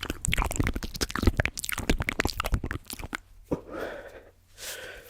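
ASMR mouth sounds and tapping: a quick run of sharp clicks and smacks for nearly three seconds, then a softer, breathy stretch.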